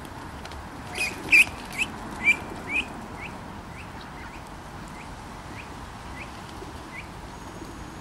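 A bird giving a series of short rising chirps, about two a second, loudest in the first few seconds and then fainter.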